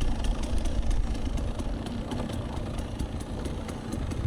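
Dirt bike engine running steadily, with no revving, while the bike rolls down a steep section of rocky single-track.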